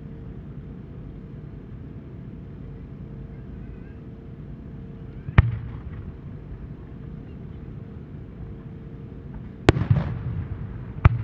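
Aerial firework shells going off: three sharp booms, one about five seconds in and two close together near the end, each trailing off in a low rumbling echo over a steady low background noise.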